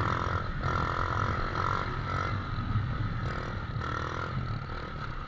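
Motorcycle engine idling steadily, a low, even rumble.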